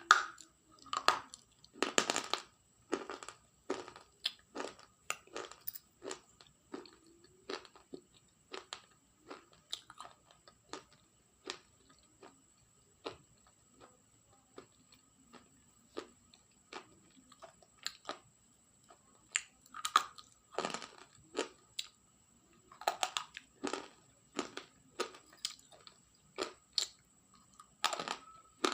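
Something crunchy being bitten and chewed close to the microphone: irregular sharp crunches a few times a second, with louder bites now and then. A faint steady high whine runs underneath.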